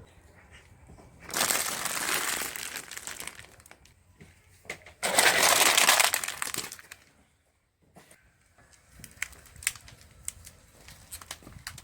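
Objects being crushed under a car tyre: two loud crunching, crackling stretches of about two seconds each, followed by faint scattered crackles.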